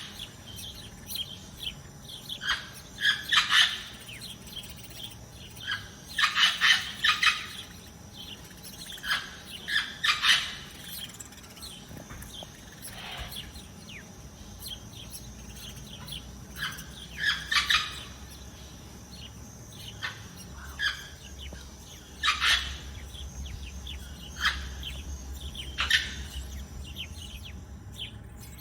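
Songbirds chirping in short bursts of quick, high calls every few seconds, over a steady faint background.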